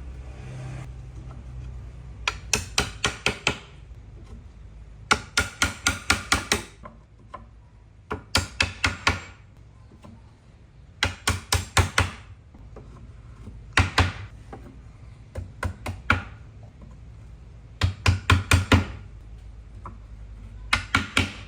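Hammer blows on wood in quick bursts of five to eight strikes, several a second, with a new burst about every three seconds, over a low steady hum.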